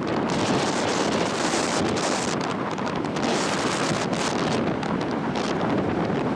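Strong coastal wind buffeting the microphone: a loud, dense rushing noise that gusts up and down.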